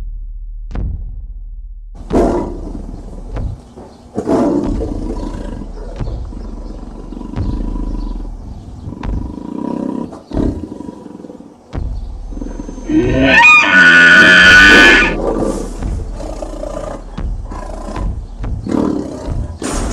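Tiger roar sound effect, loudest and longest about two-thirds of the way through, over background music with scattered knocks.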